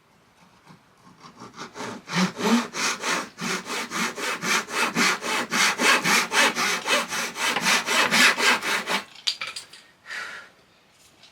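Hand saw cutting thin plywood in quick, even strokes, about five a second, for several seconds before stopping.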